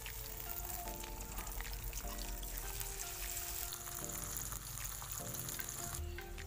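Chopped onion and tomato sizzling steadily in hot mustard oil in a metal kadai as they are stirred with a spatula. Soft background music plays along with it.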